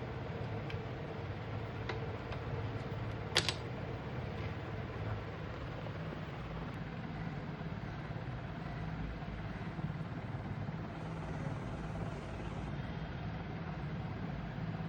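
Steady low hum of room background noise, like a running fan, with one sharp click about three seconds in and a few faint ticks.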